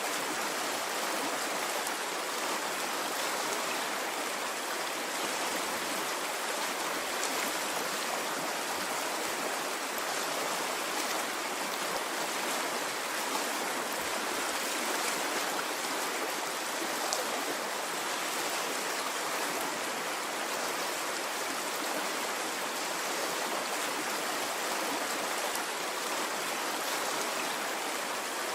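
A stream of water flowing steadily, an even continuous rush with no rise and fall of breaking waves.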